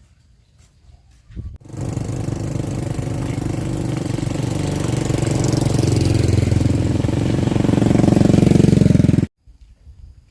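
A small engine starting up and running steadily, getting slightly louder and higher, then cutting off suddenly.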